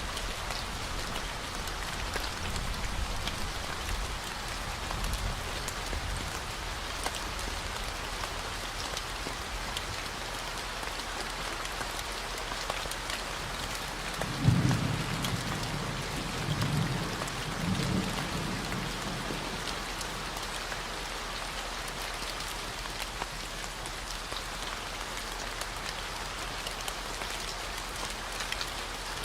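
Steady rain falling, over a constant low 40 Hz hum. About halfway through, distant thunder rumbles low in three swells.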